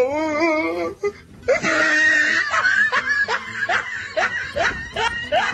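People laughing, in a run of short bursts, after a drawn-out wavering voice at the start.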